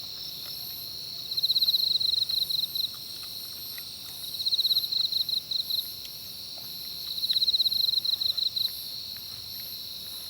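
Insects singing: one chirps in rapid pulsing bursts of about a second and a half, repeating every three seconds or so, over a steady high-pitched trill from others.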